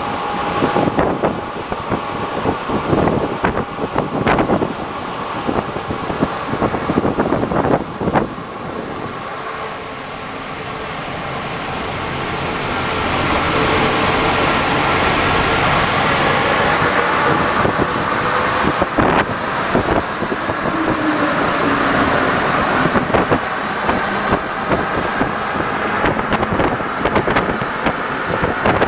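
Alstom NS-74 rubber-tyred metro train running, with clattering knocks during the first eight seconds. From about ten seconds in the noise grows louder and then holds steady, with a thin whine over the running noise.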